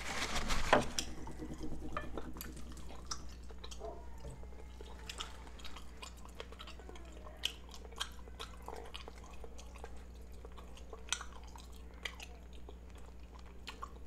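Close-up chewing of rotisserie chicken, with scattered wet smacks and clicks and the soft tearing of the meat being pulled apart by hand. There is a louder bump about a second in.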